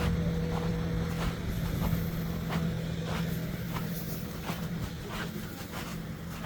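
A motor vehicle's low engine hum that fades away after about three seconds, with footsteps at a walking pace, about one step every 0.7 seconds.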